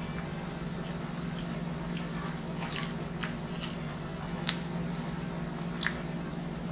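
Close-miked mukbang chewing of a mouthful of pizza, with wet mouth smacks and sharp clicks, two of them loudest about four and a half and six seconds in, over a steady low hum.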